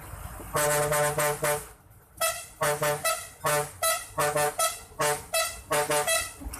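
A tune played in short, blaring, brass-like horn notes: a quick run of notes, then a rhythmic string of short paired notes.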